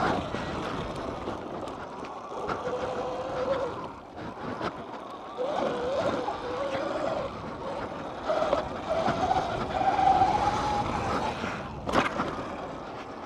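Dirt bike ridden around a track: a motor pitch rises and falls with the throttle over rushing wind and tyre noise, with a sharp knock about twelve seconds in.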